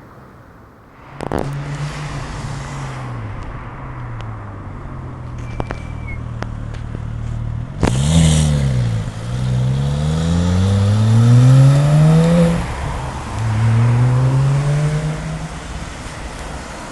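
Porsche 911 GT3 (997) flat-six engine running low and steady, with a sharp click about a second in. About eight seconds in it is given full throttle and accelerates away, its pitch climbing, dropping at an upshift and climbing again before fading.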